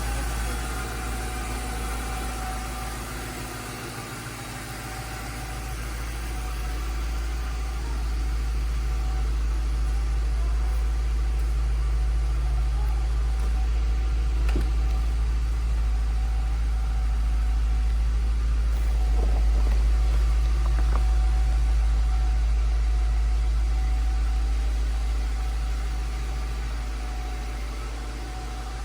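Ford Thunderbird engine idling just after a cold start, a steady low rumble. It fades a few seconds in, grows louder through the middle and eases off near the end.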